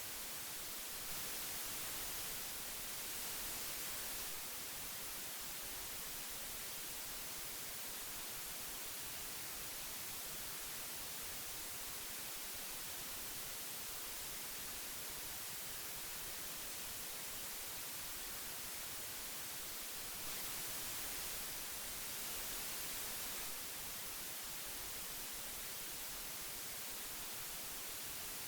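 Old analog tape hiss: a steady, even hiss weighted toward the high end, swelling slightly louder for a couple of seconds about a second in and again about twenty seconds in.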